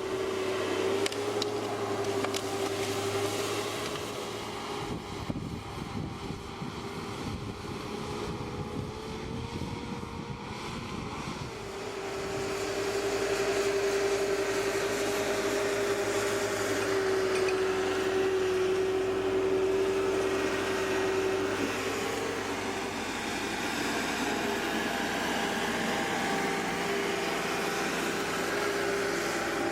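A machine's motor running steadily with a humming whine that shifts in pitch a few times and grows louder about twelve seconds in.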